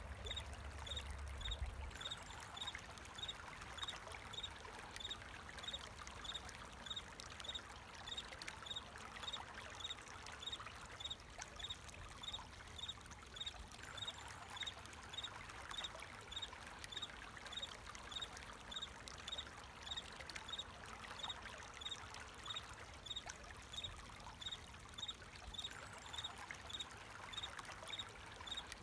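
Flowing water trickling steadily, with a cricket chirping in a regular rhythm, one short high chirp somewhat faster than once a second.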